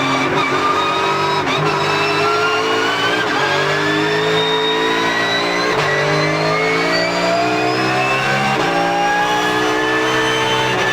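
Porsche GT3 Cup race car's flat-six engine running hard, its pitch climbing and then dropping sharply at each quick gearshift, several times over.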